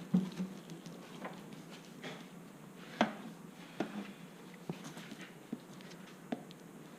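Irregular light knocks and clicks, about one a second with the sharpest about three seconds in, from equipment being handled while honey frames are uncapped, over a steady low hum.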